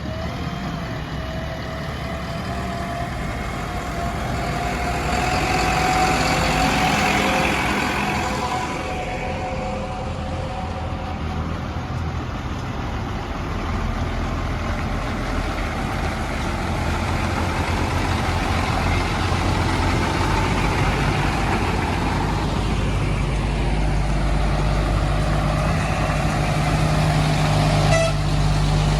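Heavy diesel engines of a backhoe loader and tipper trucks running under varying load. A slowly rising whine sounds over the first several seconds, and a deeper, louder engine note builds in the last few seconds.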